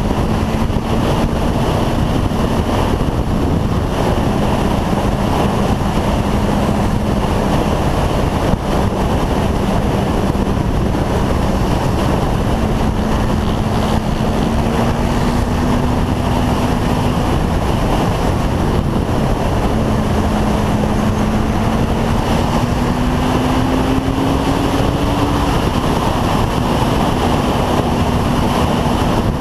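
Motorcycle riding along at speed: heavy wind rush over the microphone, with a steady engine hum underneath whose pitch rises slowly a couple of times.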